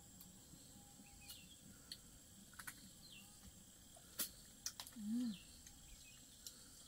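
Quiet background with a few faint high bird chirps and some sharp light clicks and taps, the loudest about four seconds in, and a brief low hum-like sound just after five seconds.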